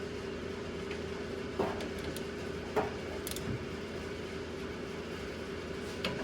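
A steady hum from a machine, with a few sharp metallic clinks and taps from tools and brake parts being handled, four in all and spread through.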